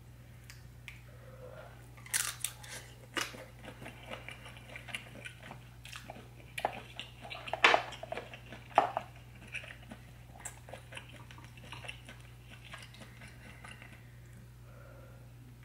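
Close-miked chewing and biting of a buttery seafood boil: wet smacking and soft crackles in quick, uneven succession, busiest in the first half with a few louder snaps about halfway, then thinning out. A steady low electrical hum sits underneath.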